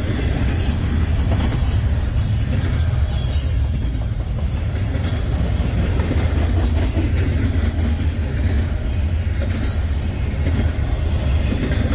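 CSX freight train cars rolling past close by: a steady, heavy low rumble of steel wheels on rail. A thin, high wheel squeal sounds in the first few seconds, and a few clacks come near the end.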